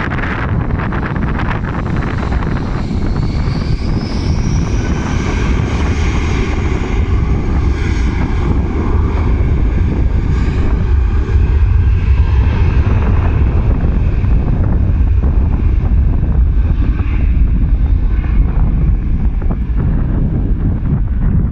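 Jet airliner's engines passing close by: a deep rumble with a high whine that rises about three seconds in, loudest in the second half, with wind buffeting the microphone.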